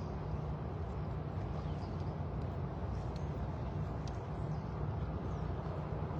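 A steady low rumble, with a few faint, short high chirps over it.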